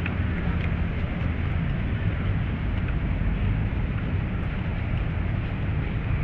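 Steady low outdoor rumble that neither rises nor falls, with a few faint high ticks scattered through it.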